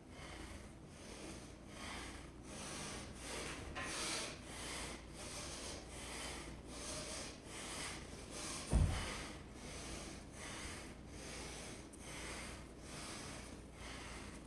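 Heavy, rhythmic breathing, about one and a half breaths a second, from hard exertion in a deadlift and chin-up workout. There is one dull, heavy thump about nine seconds in.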